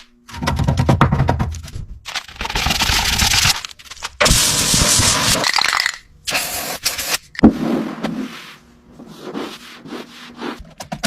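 A run of short, abruptly cut bursts of noisy work sounds: scraping and hissing, with a sharp knock about seven and a half seconds in.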